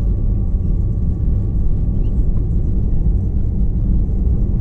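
Steady low rumble inside the cabin of an Airbus A321-211 rolling on the ground just after landing, its CFM56 engines running, with a faint steady whine above it.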